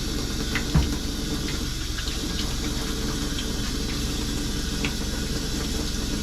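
Steady low mechanical hum, like a motor running, with a few light taps and one louder knock about a second in.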